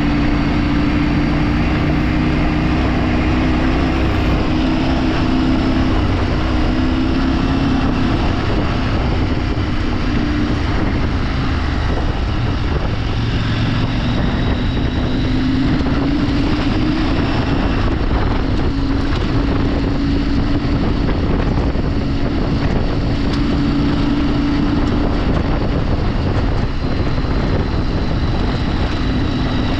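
Vehicle engine running steadily while driving off-road, its pitch wavering slightly, with wind noise on the microphone.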